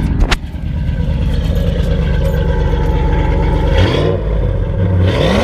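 Straight-piped vehicle engine idling with a deep, steady rumble, then blipped twice near the end, the pitch rising quickly each time.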